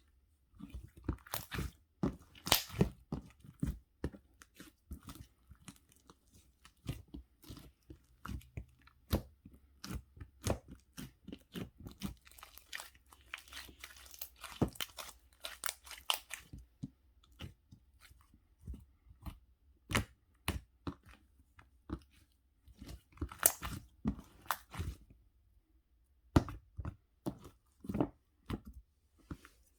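Close, irregular crisp crunches and clicks, with a short pause about 25 seconds in.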